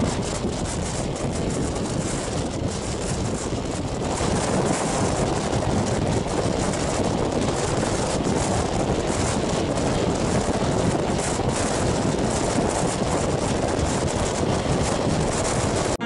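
Wind rushing over the microphone held out of a moving passenger train's window, over the steady running noise of the train on the rails.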